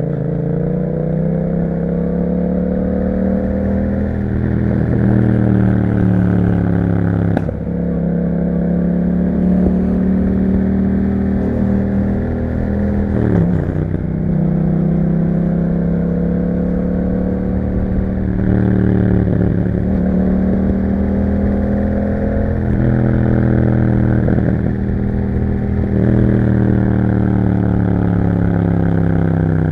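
The parallel-twin engine of a 2021 Yamaha MT-07, running through an Akrapovic exhaust, under way on the road. Its pitch climbs under acceleration and drops sharply at each gear change, several times over.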